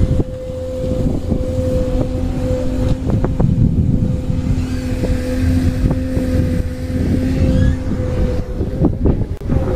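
An engine running steadily with a constant droning hum, under low rumbling wind noise on the microphone.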